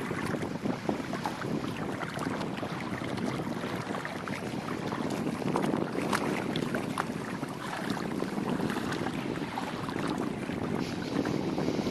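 A small sailboat under way: water sloshing and splashing against the hull, with wind buffeting the microphone.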